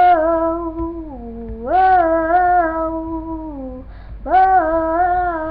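A girl singing solo without accompaniment, holding long 'whoa' notes: one fading out in the first second and a half, a second from about two seconds in, and a third starting near the end. Each note steps up in pitch, wavers, and eases down.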